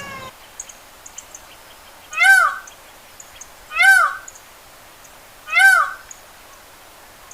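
Peacock calling three times, about one and a half seconds apart; each call is a loud cry that rises and then falls in pitch.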